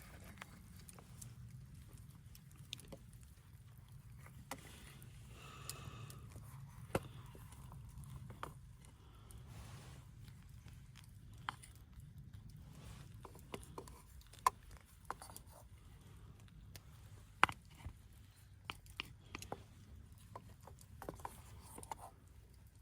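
Scattered small clicks and light knocks at irregular intervals over a low steady rumble, with two sharper clicks partway through.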